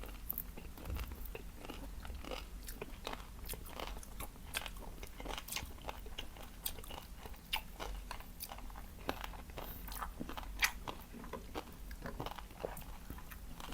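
Chewing and crunching of crispy food, with many short, sharp crunches spread irregularly through the whole stretch.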